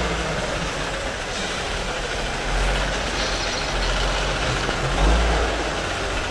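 A heavy vehicle's engine running with a low rumble and a steady noisy hiss, swelling briefly about midway and again near the end.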